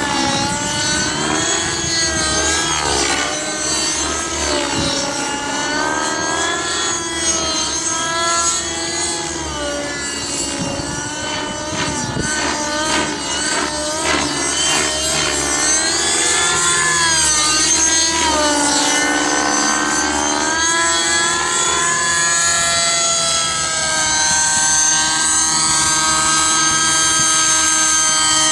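Align T-Rex 600 nitro RC helicopter with its 55H glow engine flying 3D manoeuvres, the engine and rotor pitch swinging up and down again and again, then holding steadier near the end. Wind buffets the microphone during most of it.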